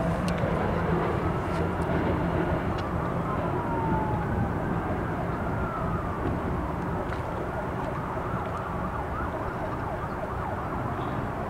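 Passing train: a steady low rumble under many short, high metallic squeals of wheels on rail that slide up and down in pitch.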